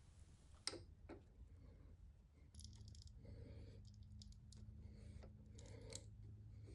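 Faint clicks and light metallic ticks from a tap being worked by hand into a drilled hole in an aluminum vise jaw, in small clusters about once a second. A low steady hum comes in about two and a half seconds in.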